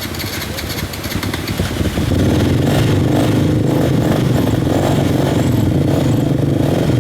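Enduro motorcycle engine running, growing louder about two seconds in and then holding a steady, loud note.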